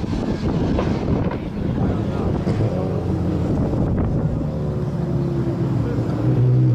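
Sport compact race car engine running on track, with wind buffeting the microphone; a steady low engine note swells louder near the end.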